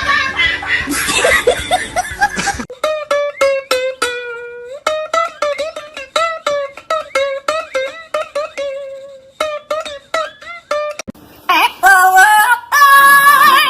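Plucked-string music in the manner of a ukulele: a melody of short picked notes, each dying away quickly, with one note sliding down in pitch. Before it, a couple of seconds of busy mixed sound cut off sharply. Near the end comes a high, wavering, voice-like sound with heavy vibrato.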